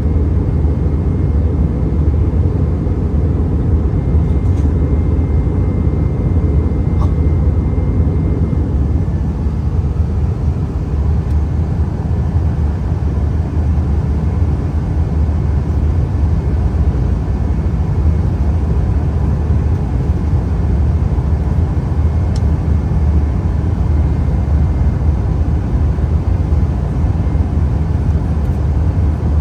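Steady low rumble of an Airbus A320neo airliner in flight on final approach, heard from inside the aircraft: engine and airflow noise, with a faint thin high tone through about the first nine seconds.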